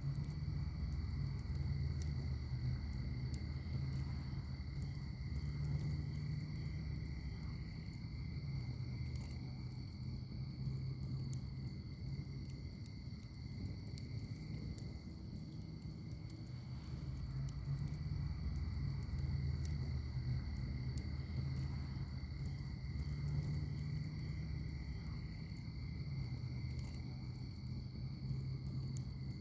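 Wood fire in a fire pit crackling, with scattered small pops over a low, uneven rumble. Insects trill steadily in the background on two high, unbroken tones.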